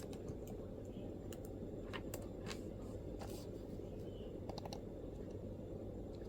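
MacBook laptop keyboard typing: scattered, irregular soft keystroke clicks, over a steady low background rumble of room noise.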